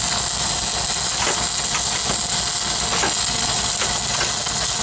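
Stick-welding arc crackling and hissing steadily, over the low running of an engine-driven welding machine.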